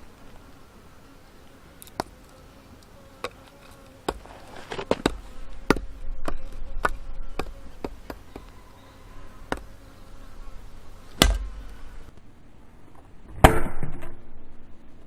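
A blade chopping into firewood: a string of sharp chops, roughly one every half second to a second, then two heavier blows near the end, the last the loudest and trailing off briefly. A faint steady drone sits underneath.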